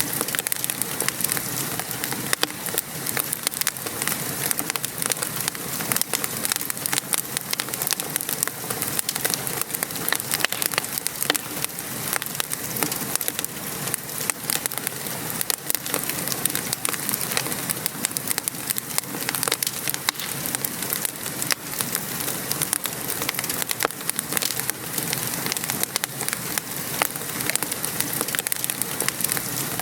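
Steady rain pattering, mixed with a wood fire crackling in irregular small pops.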